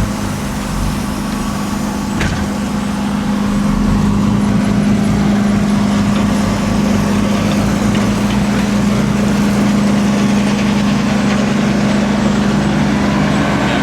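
Heavy truck engine running steadily with a strong low hum, getting a little louder about four seconds in.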